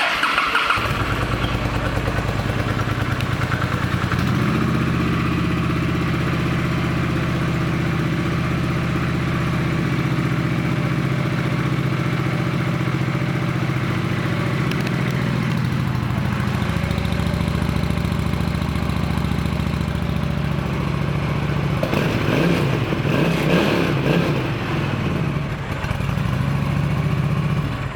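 Honda Shadow Phantom 750's V-twin engine starting and running at a steady idle, then revved a few times about three-quarters of the way through before settling back to idle. The sound cuts off suddenly at the end.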